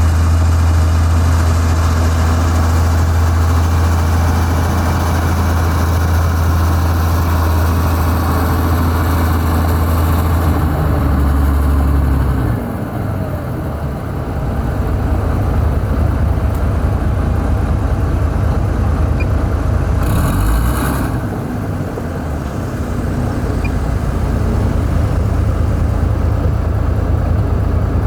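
Heavy diesel engine of construction machinery running with a strong low drone. Its tone and level shift and dip briefly about 11 to 13 seconds in, then it carries on. A short hiss comes about 20 seconds in.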